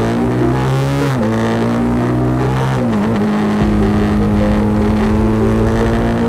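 BMW G 310 GS's single-cylinder engine pulling the bike along, its pitch climbing and then dropping at a gear change about a second in and again about three seconds in, then holding steady. Wind rumbles on the microphone underneath.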